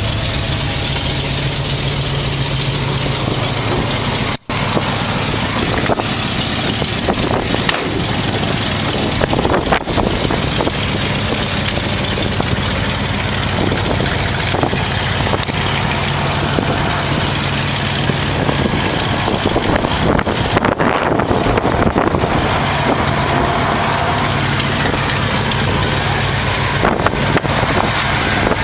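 The V8 engine of a custom frame-off restored 1951 Ford F-1 pickup idling steadily, with a brief gap in the sound about four seconds in.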